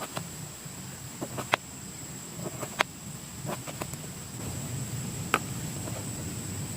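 A few sharp knocks and clicks, three of them louder and spread over the seconds, over a steady high-pitched insect drone and a low rumble.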